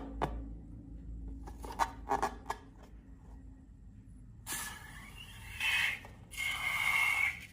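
Slime-making handling sounds: a few light clicks, then from just past the middle two or three long rustling, scraping strokes.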